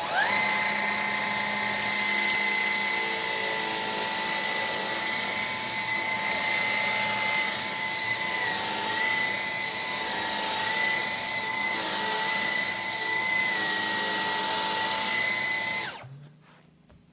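Dyson Cyclone V10 cordless vacuum switched on, spinning up fast to a steady high whine with a rush of air as it picks up a small pile of debris from the carpet. About sixteen seconds in it is switched off and the whine falls away.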